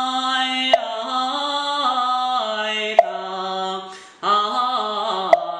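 Daoist priest singing a Quanzhen Daoist chant in a slow, drawn-out melisma, holding each vowel and stepping down in pitch, with a breath about four seconds in. A sharp knock marks the beat three times, about every two and a quarter seconds.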